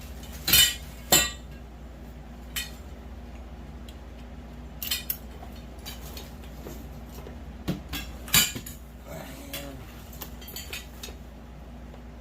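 Metal grow-tent frame poles clinking and clacking as they are handled and pushed into their corner connectors: a series of irregular sharp knocks, the loudest two close together near the start and another a little past the middle, over a steady low hum.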